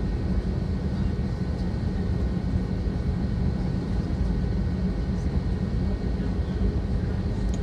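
Steady cabin noise inside an Airbus A320 taxiing on the ground: a constant low rumble from the idling jet engines and rolling airframe, with a faint steady whine on top.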